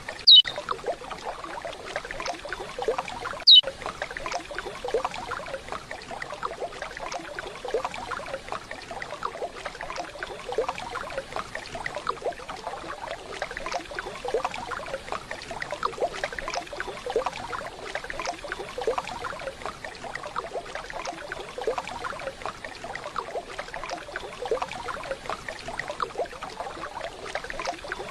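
Steady running water of a waterfall, splashing and trickling. Near the start come two short, loud, falling chirps about three seconds apart: curió (lesser seed finch) calls.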